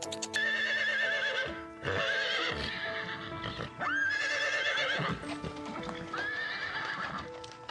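A horse neighing several times: whinnies that rise sharply in pitch and then shake. Background music plays under them.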